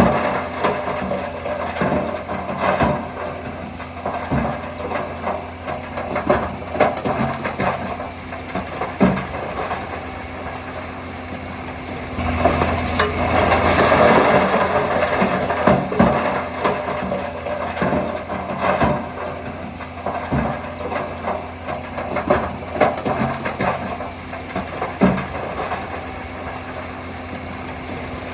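Bulldozer's diesel engine running steadily, with frequent sharp clanks and knocks from the tracks and blade working fill. It swells louder for a few seconds about halfway through.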